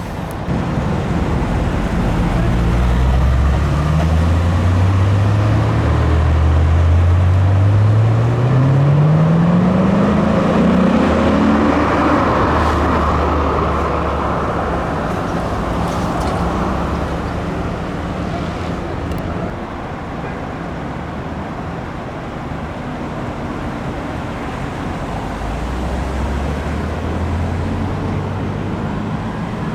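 Car engine pulling away and accelerating, its pitch rising steadily for several seconds, then steady road and traffic noise. Another engine runs low near the end.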